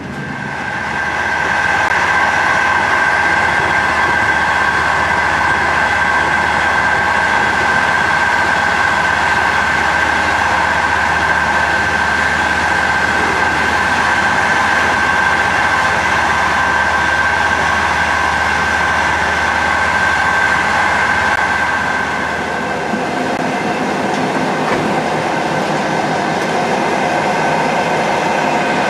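Passenger train running at speed, heard from inside the carriage: a steady rumbling running noise with a constant high-pitched whine over it. The low hum drops away and the noise eases slightly about three quarters of the way through.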